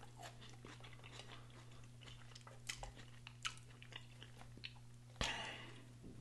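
A man chewing food close to the microphone, with soft wet lip smacks and small mouth clicks. About five seconds in comes a short breathy rush that fades over about a second.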